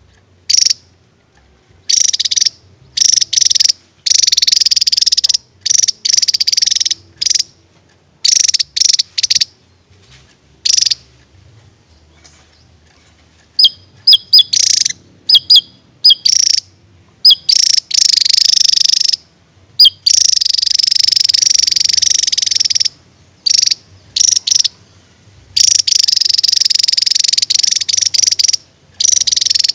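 Javan tesia singing: short, loud bursts of rapid high notes broken by silent gaps, a few sharp, clipped high notes around the middle, and two longer unbroken trills of about three seconds each in the second half.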